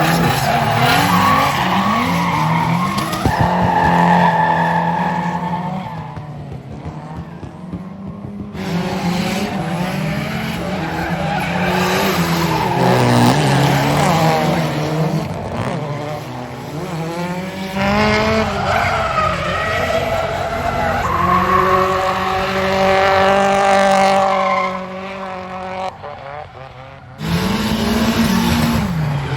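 Drift cars sliding with engines revving hard, the pitch sweeping up and down as the throttle is worked, over continuous tyre squeal. The sound drops quieter twice for a second or two, about six seconds in and near the end.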